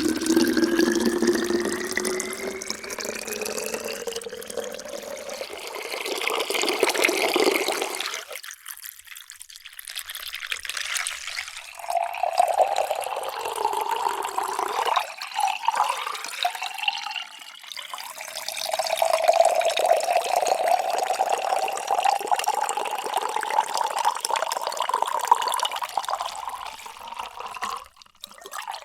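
Water poured into a vessel, with a tone that rises in pitch as the vessel fills. The pour stops about a third of the way in, and after a short lull a new pour begins and runs on with a slowly rising tone until it cuts off near the end.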